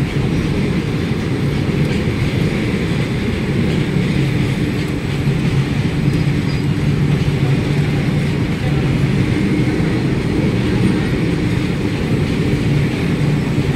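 Freight train of covered goods wagons running past at speed: a steady, unbroken rumble of wheels on rail with the rattle of the wagons.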